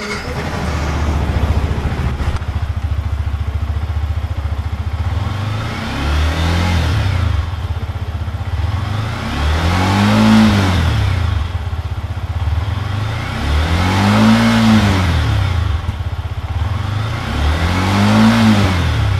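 Yamaha MT-15's liquid-cooled 155 cc single-cylinder four-stroke engine idling and revved from standstill through its exhaust: a small blip about six seconds in, then three stronger revs, each rising and falling back to idle, about four seconds apart.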